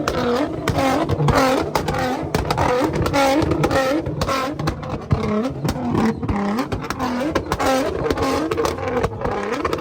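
Tuned car engine revving hard over and over, its pitch dropping and climbing about once a second, with sharp exhaust pops and bangs in between.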